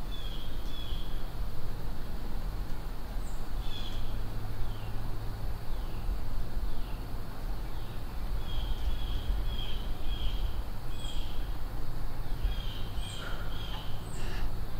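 Wild birds chirping in short repeated high notes, with a few falling calls, over a steady low rumble.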